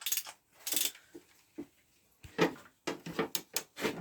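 Metal hand tools, a wrench and sockets, clinking and clicking against metal in a run of irregular short knocks that come thicker in the last second.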